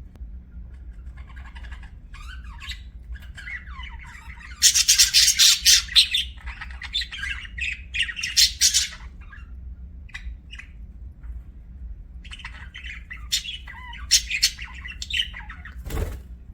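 Budgerigar chirping and chattering, broken by a loud spell of harsh squawks about five seconds in and a second run of chatter later on. A short sharp click comes near the end.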